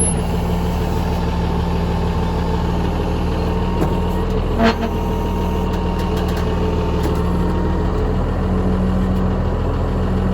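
Ford 7740 farm tractor's diesel engine idling steadily, with one short knock about halfway through.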